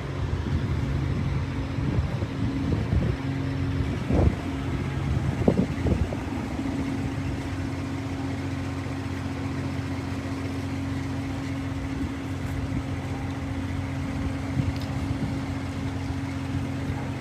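A steady low engine hum, with a few short knocks in the first six seconds.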